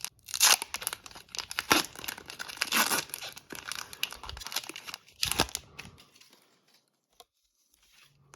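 Hockey card pack wrapper being torn open and crinkled by hand, a dense crackle with sharp spikes that stops about six seconds in.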